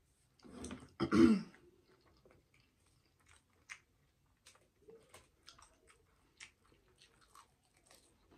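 Close-miked eating: a short, loud throaty noise about a second in, then soft, scattered clicks and smacks of chewing as she forks salad and spaghetti with meat sauce.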